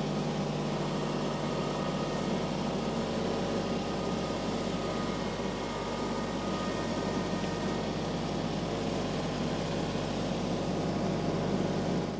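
Farm tractor engine running steadily at a constant speed, cutting off abruptly at the very end.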